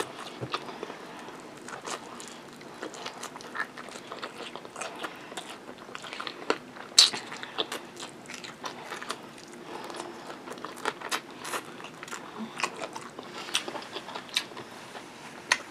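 Close-up biting, crunching and chewing of a crispy breaded fried chicken wing, a steady run of small crackles and mouth clicks with one sharper crunch about seven seconds in.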